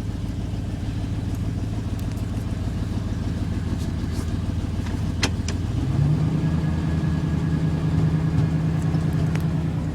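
1988 Chevy K1500 half-ton's gasoline V8 running steadily after a cold start; about six seconds in the engine speed rises and holds at the higher pitch.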